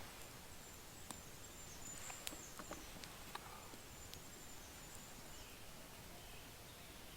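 Quiet forest ambience: faint thin high-pitched chirps and a handful of sharp scattered clicks over a low hiss.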